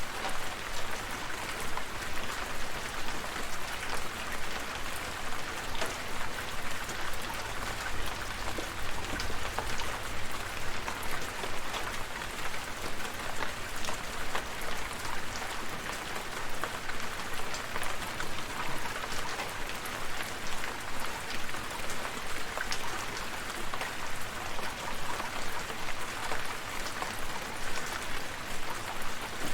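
Steady rainfall, with many individual drops pattering on surfaces.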